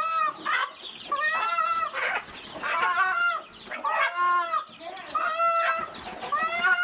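Many chickens clucking and calling at once, overlapping arched calls from several birds with no pause.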